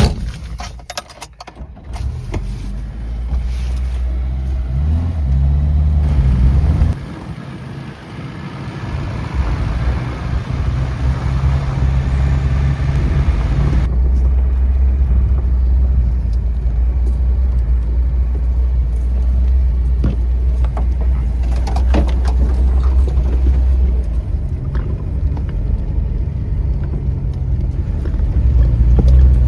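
A car driving, its engine running steadily with the pitch stepping up and down a few times early on, with a few scattered knocks and rattles.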